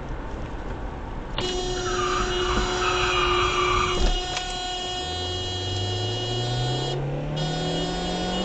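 A vehicle horn held in long steady blasts, broken once briefly near the end, over road noise, while an engine's pitch climbs steadily from about halfway through.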